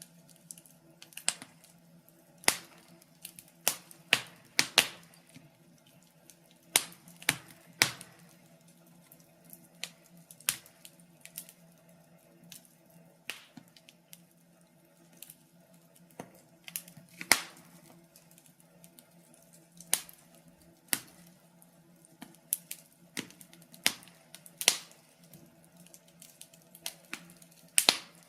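Wood fire in a fireplace crackling: burning logs giving irregular sharp pops and snaps, sometimes two or three in quick succession, over a faint steady low hum.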